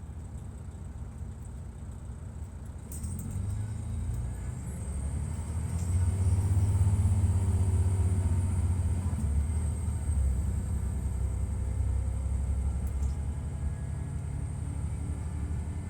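Detroit Diesel Series 60 inline-six diesel of a 2002 MCI D4000 coach running. Its low rumble builds about three seconds in, is loudest from about six to ten seconds, then eases. A high whine rises about five seconds in, holds, and falls away near the end.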